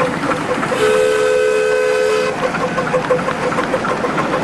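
Steam whistle on a miniature railway locomotive giving one steady blast of about a second and a half: a chord of two close notes with a hiss of steam.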